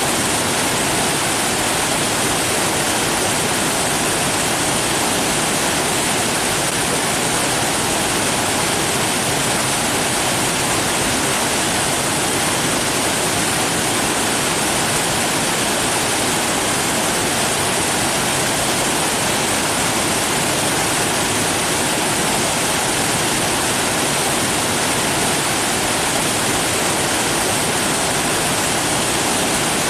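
Steady rushing water, an even, unchanging hiss-like roar with no distinct events.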